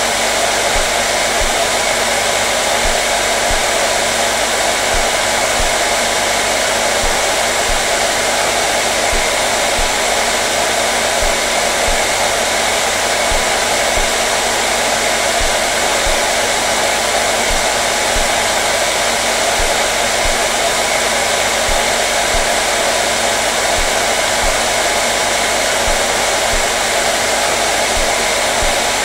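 Hair dryer running steadily at full blow: a dense, unchanging rush of air with a steady motor hum underneath.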